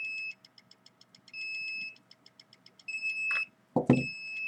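An electronic meter's alarm beeping: a high steady beep about half a second long, repeating roughly every second and a half, with fast ticking in between. A short low thump comes about four seconds in.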